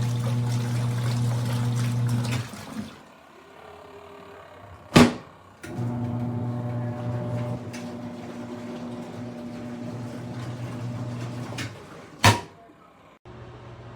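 Portable twin-tub washing machine running: its motor hums steadily under a wash of water noise, cuts out about two and a half seconds in, comes back a few seconds later and stops again near the end. Two sharp clicks fall in the quiet gaps.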